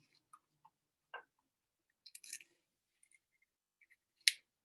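Faint, scattered clicks and small rustles from handling a glitter container and taking its lid off, with one sharper click near the end.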